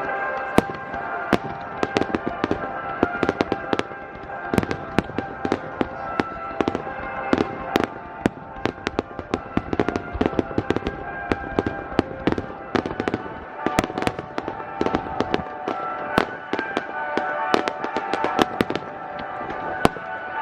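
Aerial fireworks shells bursting in rapid succession, a dense run of sharp reports and crackles, with music playing steadily underneath.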